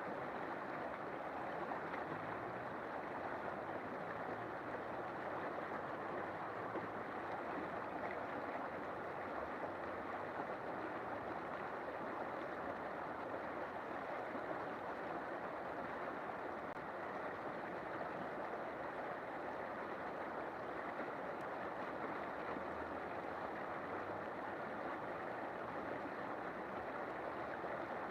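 River water flowing in a steady rush, even and unchanging throughout.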